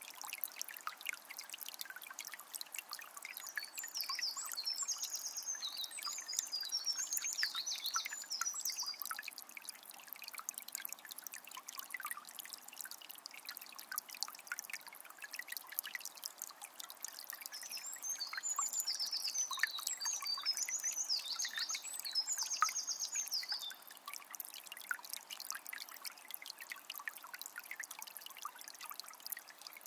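Shallow forest river trickling and babbling over stones in a steady, crackly rush. A songbird sings two phrases of quick high notes over it, one near the start and one about two-thirds of the way in, and begins another just at the end.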